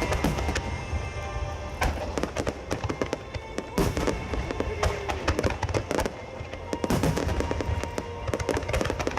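Large starmine fireworks display going off: a rapid, irregular series of shell bursts and crackling, with music playing alongside.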